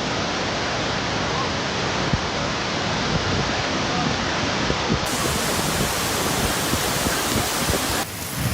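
A steady rushing noise, even and without any tone or beat, that turns brighter and hissier about five seconds in and stops abruptly near the end.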